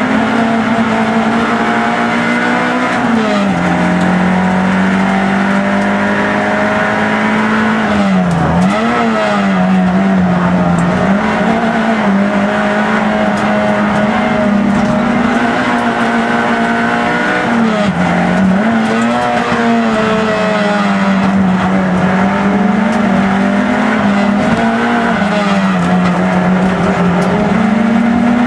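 Peugeot 106 race car's engine heard from inside the cockpit, running hard at high revs. Its pitch dips briefly and climbs back several times, and drops and settles lower a few seconds in.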